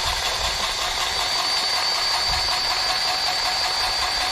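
A motor running steadily with a high, slightly wavering whine.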